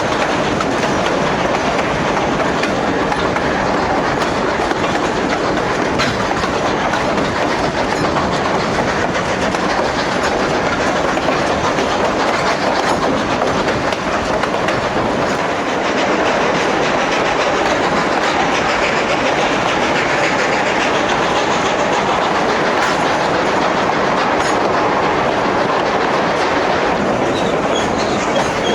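Durango & Silverton narrow-gauge train rolling along the track: a steady, loud running noise of wheels on rails, with a faint high wheel squeal coming in near the end.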